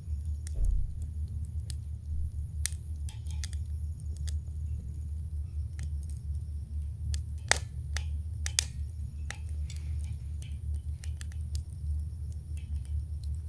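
Wood campfire crackling, with irregular sharp pops that are loudest about halfway through, over a steady low rumble.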